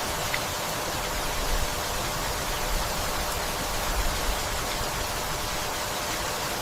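Steady rain falling, an even hiss with a few slightly louder moments.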